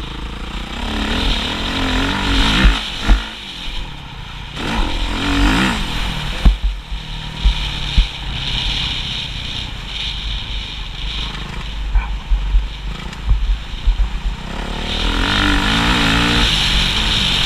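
Motocross motorcycle engine revving up and falling back again and again, with repeated low thumps.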